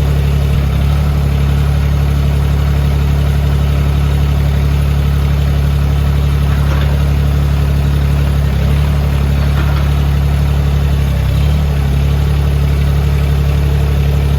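Mahindra eMax 20 HST compact tractor's three-cylinder diesel engine running at a steady idle.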